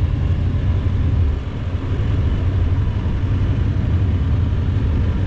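1968 Buick Skylark's engine running as the car drives, a steady low rumble that dips briefly about a second and a half in.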